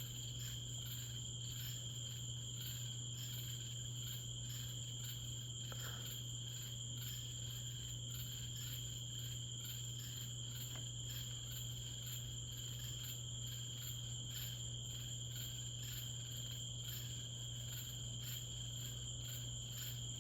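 Night insects chirping steadily in a continuous chorus, with a high pulsing chirp about two and a half times a second, over a steady low hum.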